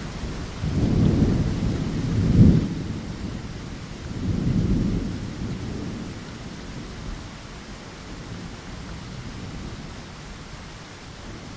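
Steady rain with rolling thunder: a low rumble swells about a second in, peaks sharply a little later, rolls again around the middle and then dies away under the rain.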